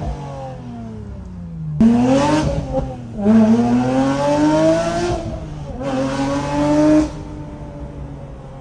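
Porsche 911 GT3 992.2's naturally aspirated flat-six through a JCR aftermarket exhaust, pulling hard. Its pitch climbs in repeated rising runs that drop back at each shift, then cuts off abruptly about seven seconds in, settling to a low rumble.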